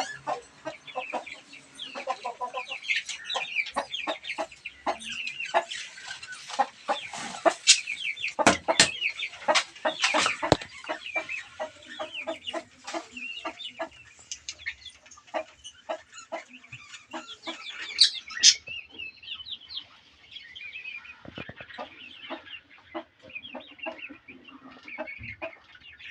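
Chickens clucking, with a busy mix of short, high bird calls around them.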